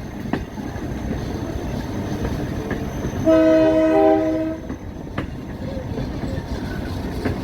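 EMD F40PHM-2 diesel locomotive pulling up a steep grade, heard from the open coach right behind it as a steady rumble. About three seconds in, its air horn sounds one chord of several notes lasting over a second.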